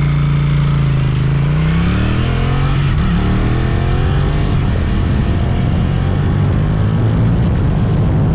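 Suzuki twin-cylinder motorcycle engine through an Akrapovic exhaust, held steady, then revving up about two seconds in, with a brief break and a second climb that fits a gear change. It then settles into a steady cruise.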